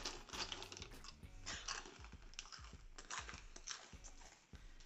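A person chewing crunchy, tube-shaped Samyang Zzaldduk hot chicken flavor chips: a faint, irregular run of small crunches.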